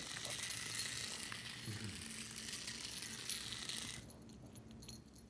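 Battery-powered Hexbug toy mouse buzzing and rattling as its vibration motor drives it across the floor; the rattle stops suddenly about four seconds in.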